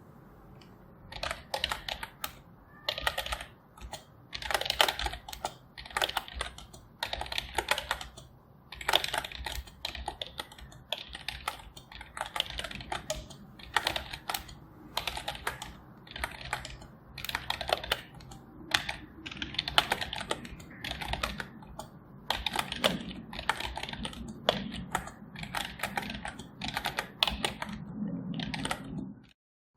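Typing on a computer keyboard: runs of rapid keystrokes with short pauses between them.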